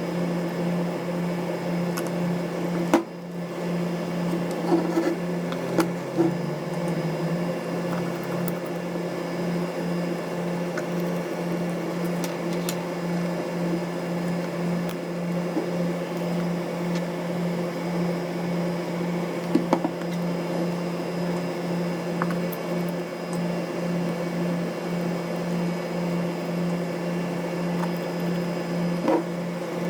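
A steady, even machine hum with a few light clicks and taps scattered through it, typical of small tools and parts being handled during camera disassembly.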